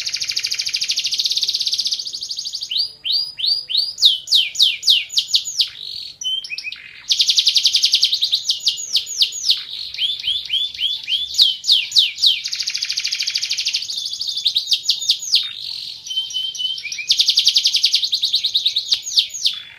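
Domestic canary singing continuously in a loud, high-pitched song. Dense, fast rolling trills alternate with runs of repeated sweeping notes, broken by short pauses.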